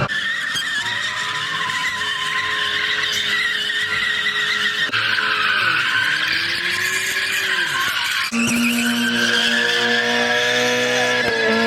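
Car tires squealing in a long, continuous screech as a car spins its tires at a street takeover, with the engine revving underneath; the engine note dips and climbs again about halfway through, and a steadier engine note joins about eight seconds in.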